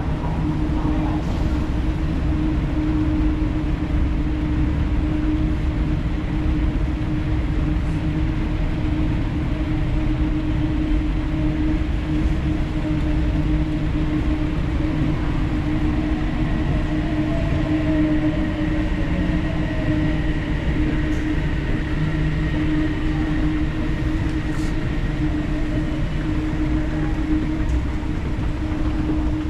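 Odakyu Line electric train running: a steady rumble with a constant hum, and a faint whine shifting in pitch around the middle.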